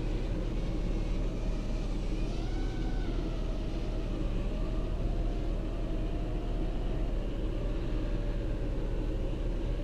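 Steady low rumble inside a car in strong blizzard wind, with a faint whine that wavers up and down in pitch.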